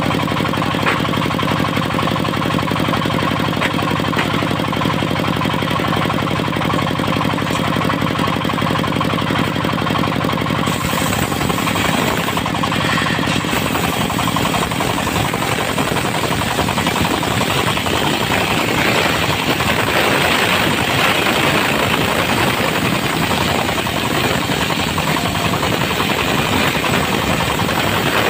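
Dongfeng diesel engine driving a circular sawmill blade, running steadily; about eleven seconds in the sound turns rougher and noisier as the saw cuts through teak.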